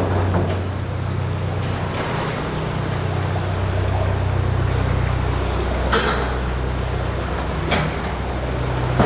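Narrowboat's diesel engine running steadily at low revs, with two brief sharp knocks about six and eight seconds in.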